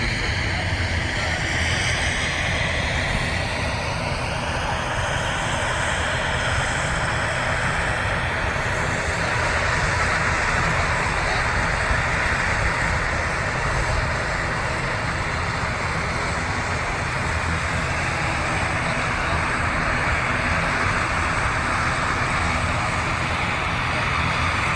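Jet airliner passing close by. Its engine whine slides down in pitch over the first several seconds, then settles into a steady rushing noise.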